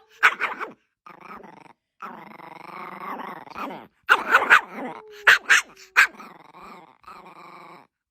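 A dog vocalizing on cue: short sharp barks about half a second in and again around four to six seconds in, with longer wavering, growl-like sounds between them.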